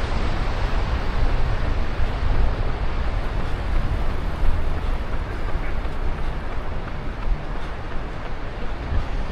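Wind buffeting a body-worn action camera's microphone during a run: a steady rushing noise with a low, fluttering rumble and no distinct events.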